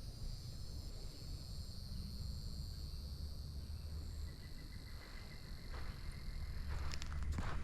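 A steady, high-pitched chorus of trilling insects. Near the end, footsteps on the trail begin.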